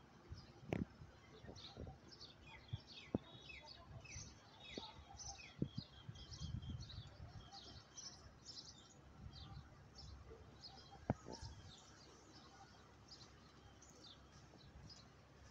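Small birds chirping: many quick high notes, with a run of short falling notes through the first half. A few faint clicks and a low rumble of wind or handling sit beneath.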